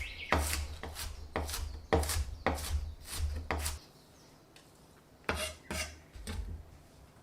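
Kitchen knife chopping on a cutting board, about two strokes a second for three and a half seconds. After a short pause come three more cuts.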